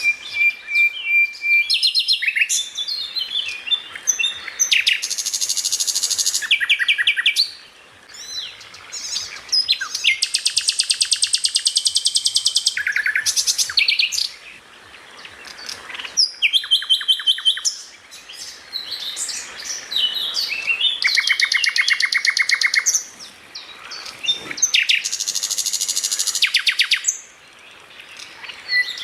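Songbird singing a loud, varied song: fast trills and rattling series a second or two long, broken by short whistled notes and brief pauses between phrases.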